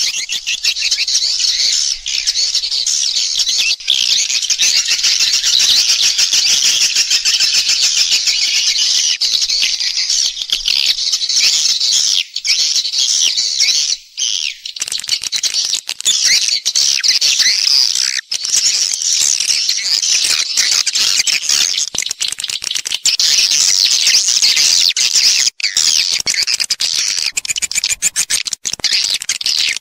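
Edible-nest swiftlet lure recording: a dense, continuous chorus of rapid, high twittering swiftlet calls. This is the 'call and roost' sound played in swiftlet houses to draw the birds in to roost and nest.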